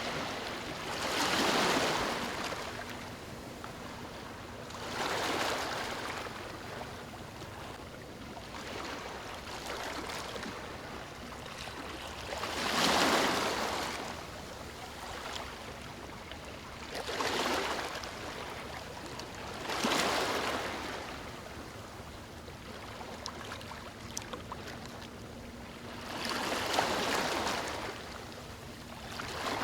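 Ocean waves breaking on a beach: about six surges of surf at irregular intervals a few seconds apart, each swelling and fading away, with a steady wash of water between them.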